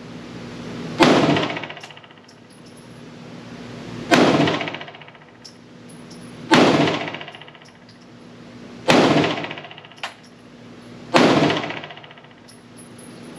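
PSA Dagger 9mm compact pistol fired five times in slow, aimed fire, a shot about every two and a half seconds, each report ringing out in the indoor range.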